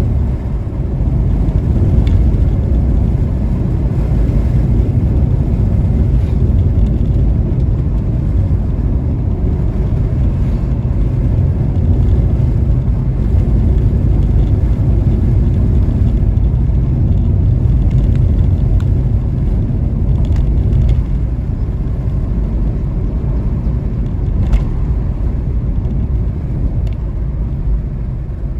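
Hyundai Venue driving along, a steady low rumble of road and engine noise with a few faint clicks.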